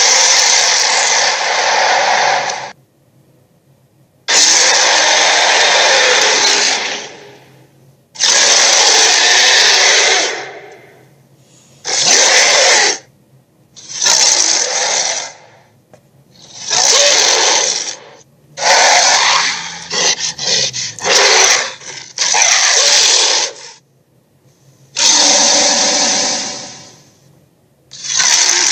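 Dragon roar sound effects: a series of about ten harsh, rasping roars and growls, each one to three seconds long with short pauses between. Around two-thirds of the way through, one roar breaks into a quick run of short choppy snarls.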